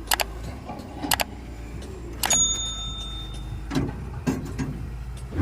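Several sharp metallic clinks and knocks from metal parts and tools being handled, one about two seconds in ringing briefly, over a steady low hum.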